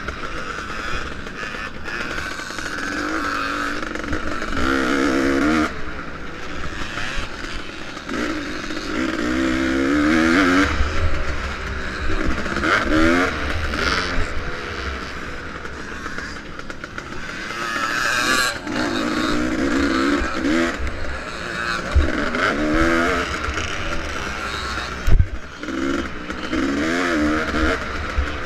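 Vintage motocross motorcycle engine under race load, its pitch climbing and dropping again and again as the throttle is opened and shut, over a rushing noise. A few sharp knocks come in the last third.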